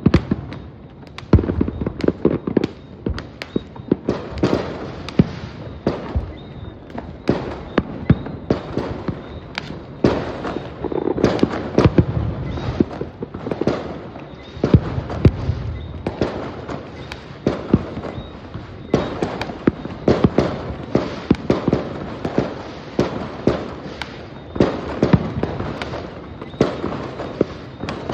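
Fireworks exploding in a dense, irregular barrage of sharp bangs and booming bursts, several a second, with rolling echoes between them.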